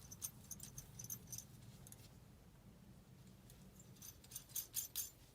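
Faint small metallic clicks and scrapes of a nut driver working the 1/4-inch screw on a gas furnace's flame sensor, in two clusters, one at the start and one about four seconds in, over a faint low hum.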